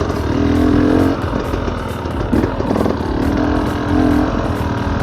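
Off-road enduro dirt bike engine running, with the revs rising and falling in several bursts.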